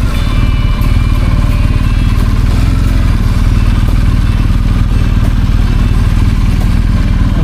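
BMW R 1250 GS boxer-twin engine running steadily under way, loud and low, with no clear change in revs.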